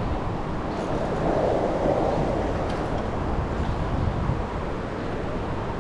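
Steady rushing noise of wind on the microphone and flowing river water, swelling a little between one and two seconds in.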